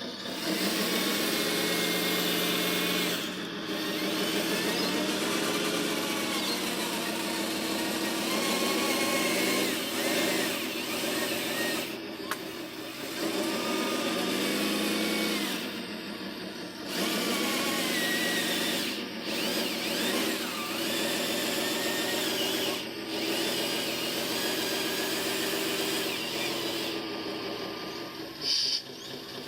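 Small electric motors and gearboxes of radio-controlled construction vehicles whining, their pitch rising and falling as they speed up and slow down, in spells of a few seconds with short breaks between them.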